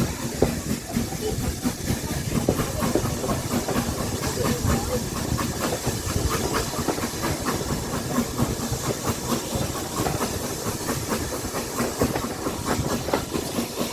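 Steam-hauled heritage train in motion, heard from on board: a steady hiss over the running noise of the carriage, with many quick wheel clicks and rattles.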